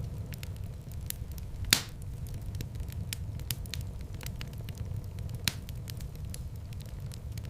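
Wood fire burning in a fireplace: a steady low rumble of flames with constant light crackling and two louder pops, one just under two seconds in and one about two-thirds of the way through.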